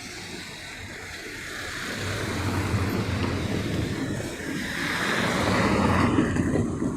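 A car driving past, its tyre and engine noise swelling from about two seconds in and peaking near the end.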